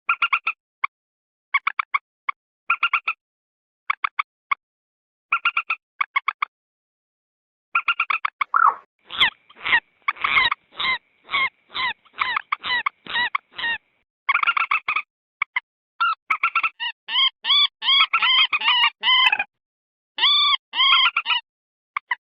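Common moorhen calls from an edited lure recording. Groups of three to five short clipped notes alternate with dead silence, then about eight seconds in comes a run of louder single notes about twice a second. Near the end these give way to rapid chattering strings of calls.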